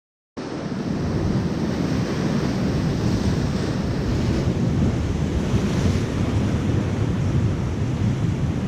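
Wind buffeting the microphone over the steady wash of ocean surf, starting abruptly a moment in.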